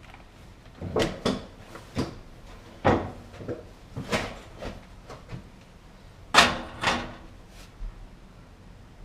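Irregular knocks and clunks of parts and panels being handled while a GE gas dryer is taken apart, about a dozen in all, the loudest about six and a half seconds in.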